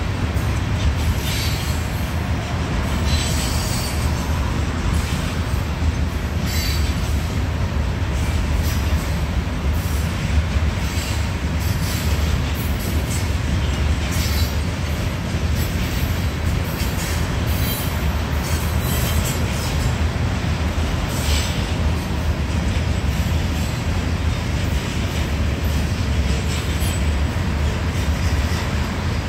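Freight train of covered hopper grain cars rolling past with a steady low rumble, and brief high screeches from the wheels every few seconds.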